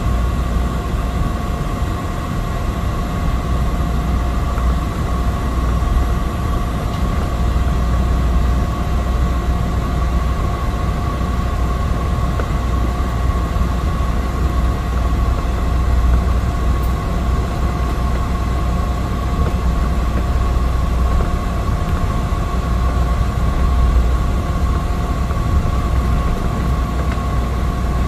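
Cabin noise inside a Cessna 208 Caravan: its single Pratt & Whitney PT6A turboprop and propeller running steadily, a deep rumble with a constant whine on top.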